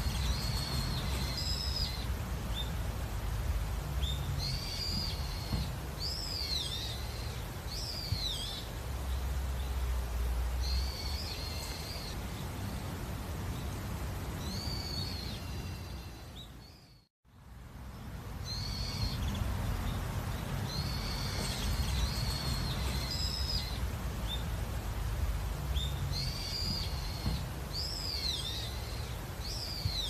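Small birds calling and singing in short phrases of high whistled and slurred notes, a few seconds apart, over a steady low background rumble. The sound fades out to silence about 17 seconds in and fades straight back in.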